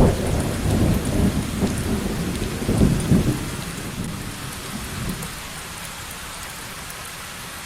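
Steady rain hiss with a rolling thunder rumble over the first few seconds that dies away about halfway through, leaving the rain alone.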